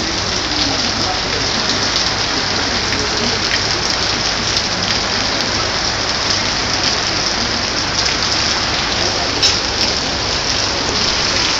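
Heavy rain pouring down in a deluge: a loud, steady hiss of dense rainfall, with scattered sharper drop hits, one of them louder near the end.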